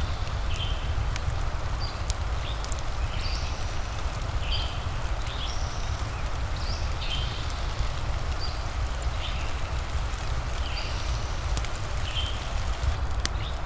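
Steady rain ambience with a low rumble underneath and scattered faint crackling ticks, as of a fireplace. Short high chirps from a small animal repeat about once a second over it.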